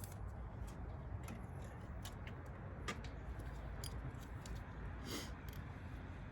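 Scattered light clicks and taps of a socket and extension knocking against metal while it is being fitted onto a bolt, over a steady low hum.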